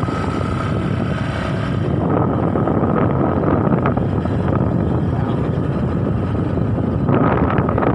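Steady rumble of a running vehicle engine, with wind noise on the microphone.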